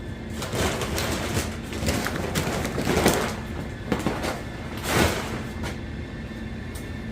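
Handling noises as things are shifted about: scraping, rustling and dull knocks, loudest about three and five seconds in, over a faint steady hum.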